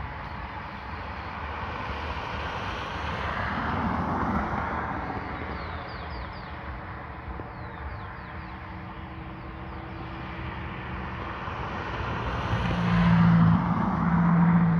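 Road traffic: one car swells past and fades about four seconds in, and a louder vehicle with a low steady engine hum passes near the end.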